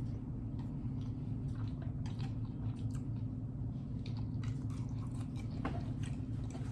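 A man chewing food, with scattered wet smacks and clicks of the mouth, over a steady low hum.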